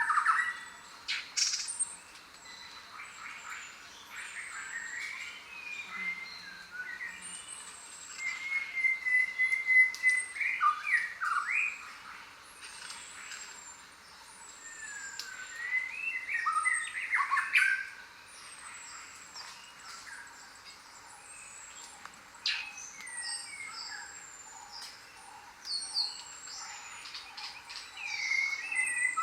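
A chorus of jungle birds calling, several kinds at once: thin high whistles that slur downward, repeated every second or two, with louder flurries of chirping about a third of the way in, around the middle, and near the end.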